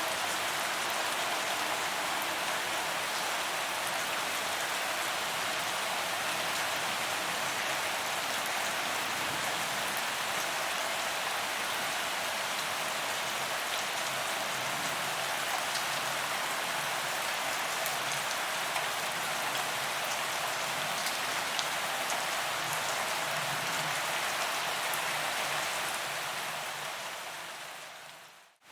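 Steady rain falling on paved ground, a dense even hiss of drops with scattered small ticks, fading out smoothly in the last second or two.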